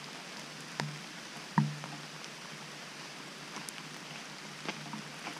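Steady rain falling through the forest, with a few sharp taps of drops striking the camera, the loudest about a second and a half in.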